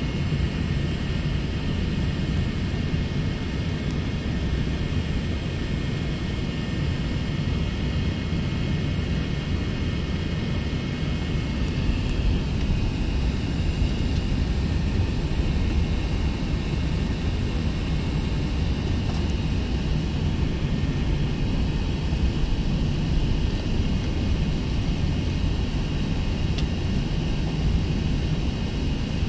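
Airbus A380 jet noise: a steady low rumble with a faint high whine on top.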